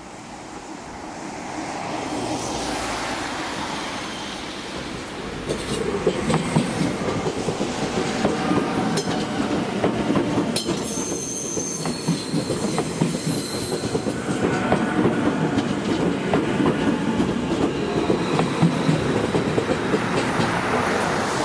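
Matterhorn Gotthard Bahn metre-gauge train running on the track, growing louder over the first seconds, its wheels clicking over rail joints. A brief high wheel squeal comes about eleven seconds in.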